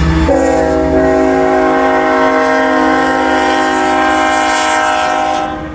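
Canadian National freight locomotive's air horn sounding one long chord of several notes at once for about five seconds, over the low rumble of the passing diesel locomotives. The horn cuts off just before the end.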